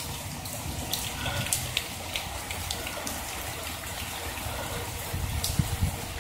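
Steady summer rain falling, with scattered drops ticking sharply close by and a low rumble rising near the end.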